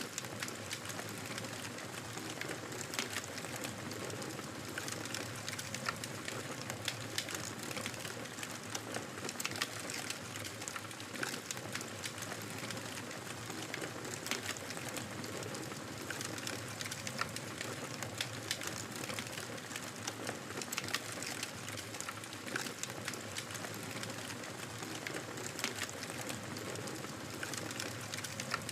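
Fire in a fireplace crackling, with frequent irregular sharp pops and snaps over a steady soft hiss.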